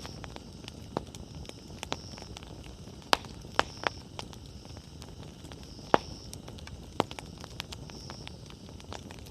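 Wood campfire burning with a low steady rush, broken by sharp crackles and pops from the burning firewood at irregular moments, several close together about three seconds in and a loud one near the middle.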